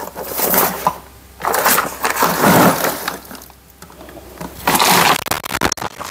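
Rummaging through parts and objects: rustling and clattering in several bursts, with a few sharp clicks near the end.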